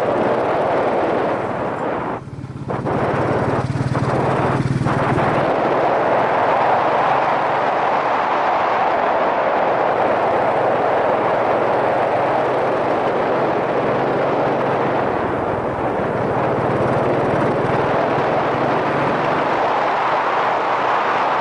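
Wind rushing over a helmet-mounted microphone while riding a Yamaha SRX400, with the bike's single-cylinder four-stroke engine running low underneath. The wind noise dips briefly about two seconds in and twice more soon after.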